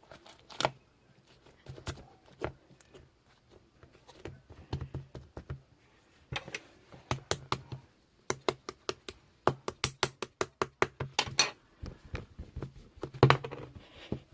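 Rapid, irregular clicking and tapping in bursts, with a short pause before the densest run.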